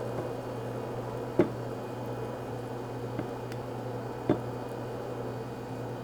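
A steady mechanical hum with a few light knocks or taps, the two loudest about three seconds apart.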